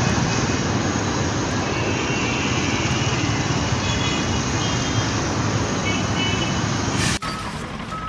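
Steady loud vehicle noise, broken off by an abrupt cut about seven seconds in.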